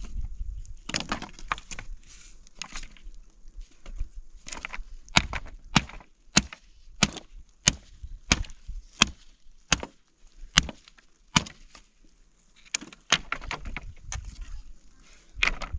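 Wood being chopped: a run of about ten sharp blows at roughly one to two a second through the middle, a short pause, then a few more blows, with splintering and crackling between them.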